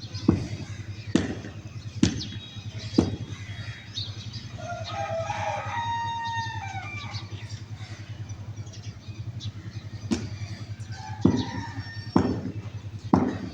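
A rooster crows once, a single long call about 4 s in. Sharp knocks come several times before and after it.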